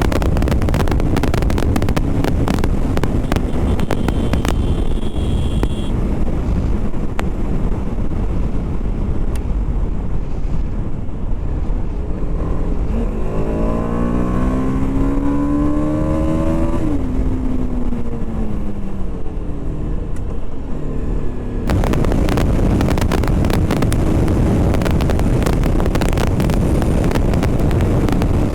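BMW G 310 RR's single-cylinder engine under way, mostly buried in heavy wind noise on the helmet mic. Partway through the wind eases and the engine is heard revving up, its pitch rising for a few seconds, then dropping off. The wind noise comes back suddenly near the end.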